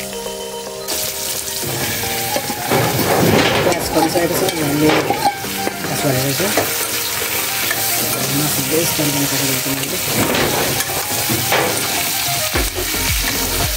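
Pork pieces frying in hot oil with onions in a wok, a loud sizzle that starts abruptly about a second in, with a metal spoon scraping and stirring the pan.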